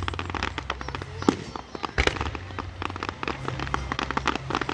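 Fireworks crackling: a dense run of rapid sharp pops, with a louder bang about two seconds in, over a low steady rumble.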